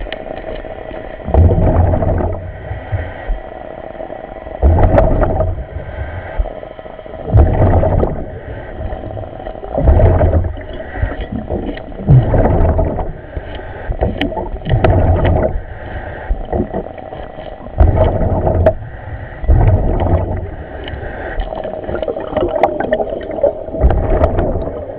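Commercial diver's breathing through surface-supplied diving gear, heard over the dive radio: a loud rush of breath and bubbles about every two and a half seconds, in a steady rhythm.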